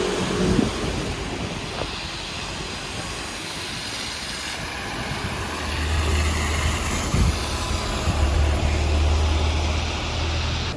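City street traffic noise, with a low vehicle rumble coming in about halfway through and holding until near the end.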